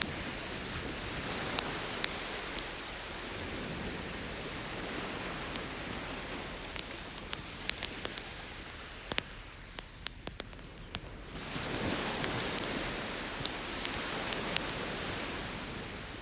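Campfire crackling with scattered sharp pops over the steady wash of ocean surf, which swells with a wave about twelve seconds in.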